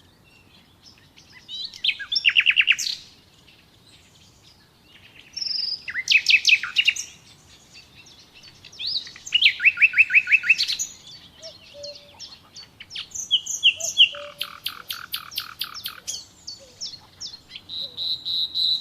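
Songbirds singing: a phrase of quick repeated high notes every few seconds, with more overlapping short calls and trills in the second half.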